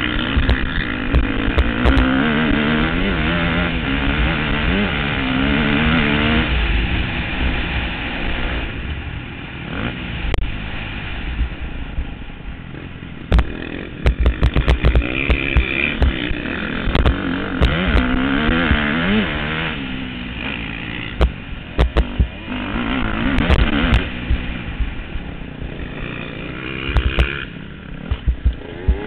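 Motocross bike engines revving up and down again and again as the bikes ride the track, with frequent sharp clicks over the top.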